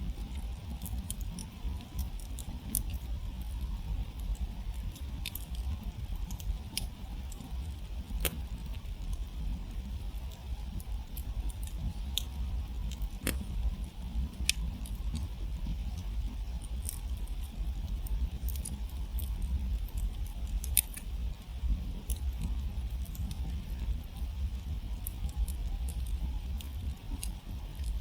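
Wood campfire burned down to glowing embers, giving irregular sharp crackles and pops, a few every couple of seconds, over a steady low rumble.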